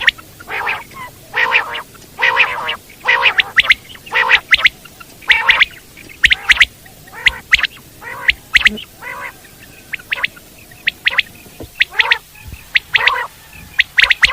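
Common quails calling over and over: short, sharp high notes in quick groups, mixed with longer, harsher calls repeated about once or twice a second.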